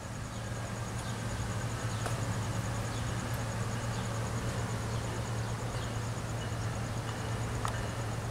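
Metrolink commuter train with its MP36PH-3C diesel locomotive approaching from a distance: a steady low engine hum that swells slightly over the first couple of seconds. A fast, regular high ticking runs alongside it, and there is a single click near the end.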